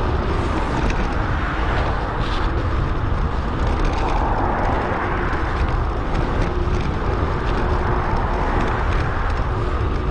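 Wind rushing over an action camera's microphone during a bicycle ride, a loud, steady low rumble mixed with road and tyre noise.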